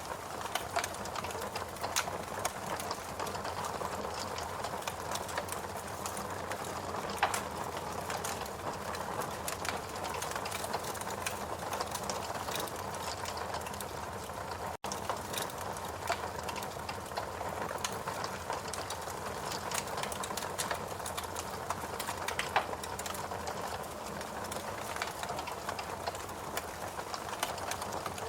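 Fireplace crackling: a steady hiss dotted with frequent small pops and snaps, cutting out for an instant about halfway through.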